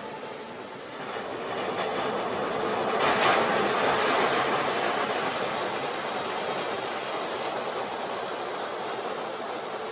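A soft rushing noise wash from an ambient relaxation soundtrack, with no clear tones, swelling about three seconds in and then slowly easing off.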